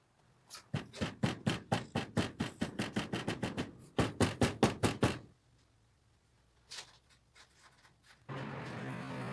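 Rapid, evenly spaced hand-tool strokes on a workpiece, about four or five a second, in two runs with a short break. After a pause, a small electric motor starts near the end and runs steadily.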